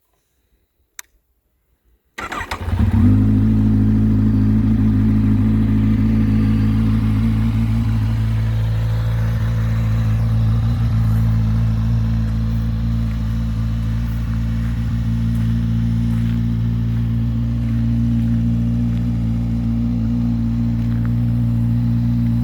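2011 Kawasaki Z1000's inline-four engine cold-started: a single click about a second in, a short crank on the starter about two seconds in, and the engine catches at once and settles into a steady idle.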